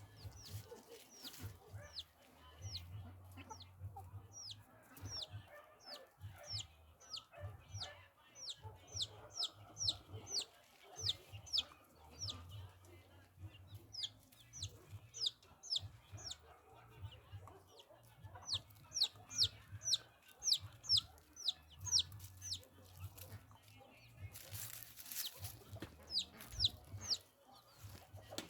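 Bird chirping: runs of short, high-pitched downward chirps, several a second, with short pauses between runs. A brief rushing noise comes about three-quarters of the way through.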